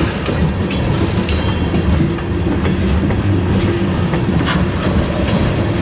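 Freight train rolling by with wheels clacking over the rail joints over a steady low rumble. A short hiss comes about four and a half seconds in.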